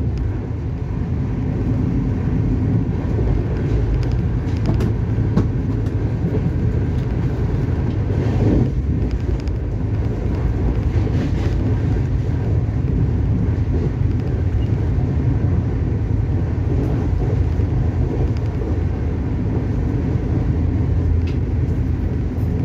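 Steady low rumble of a passenger train running at speed, heard from inside the carriage, with an occasional faint click.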